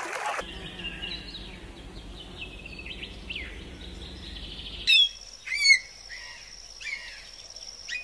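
Birdsong: many faint, quick chirps from small birds, then, after an abrupt change about five seconds in, a few loud, sharp calls over a steady high tone.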